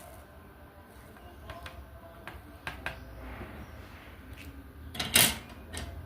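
Small, sharp plastic clicks and taps from diamond painting work: the drill pen and resin drills tapping against the tray and canvas. There are a few scattered clicks, then a louder clatter about five seconds in.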